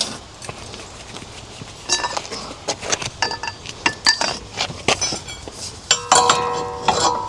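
Steel hand tools clinking and clattering as a socket and breaker bar are worked on the wheel hub nut: scattered sharp metal clicks from about two seconds in, with ringing metal knocks near the end.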